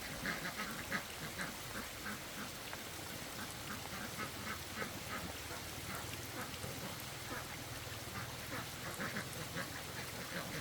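Ducks quacking: many short calls, several a second.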